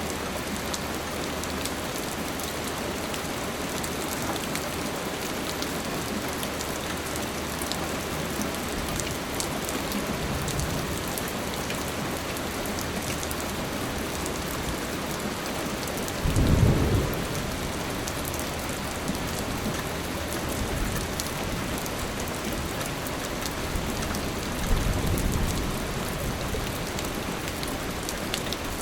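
Steady rain falling, with a low rumble of thunder about sixteen seconds in and a second, weaker rumble near the end.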